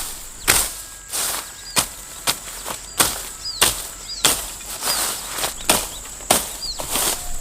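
A hand tool chopping or striking with steady, even blows, about a dozen sharp strokes at roughly one every two-thirds of a second, over a steady high-pitched whine.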